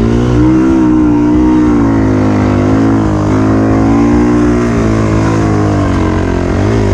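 2020 Yamaha YZ450FX single-cylinder four-stroke dirt bike engine running under throttle, its revs rising and falling unevenly as the bike rides into a sand-bottom river.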